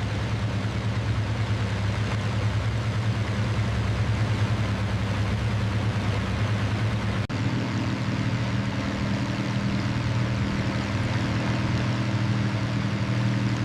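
Propeller aircraft engines running with a steady, even drone. A brief break comes about seven seconds in, after which the drone carries on with a slightly different pitch mix.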